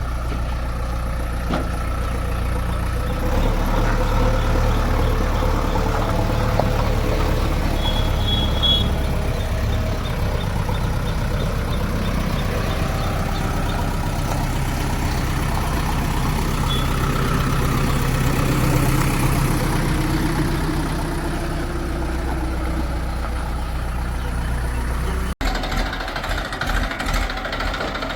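Diesel engines of a backhoe loader and tractors running steadily, the engine note rising and getting louder a few seconds in and again about two-thirds of the way through as the machines work. There is a brief drop near the end where the footage cuts.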